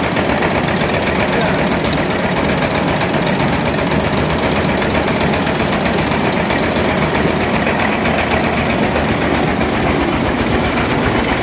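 Tobacco-leaf shredding machine running steadily, with a fast, even mechanical rattle.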